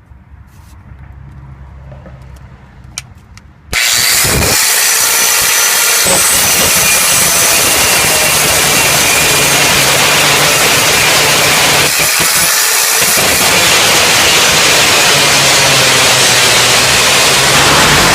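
A power tool starts abruptly a few seconds in and cuts steadily through the steel exhaust pipe, a loud harsh noise that eases briefly about twelve seconds in before carrying on.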